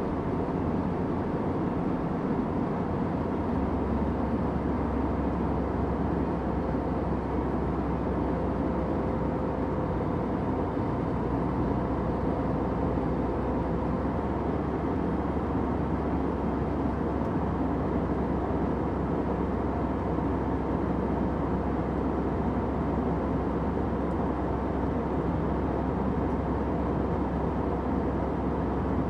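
Steady drone of an airliner in flight, a constant low rumble with a faint hum underneath, with no changes or sudden sounds.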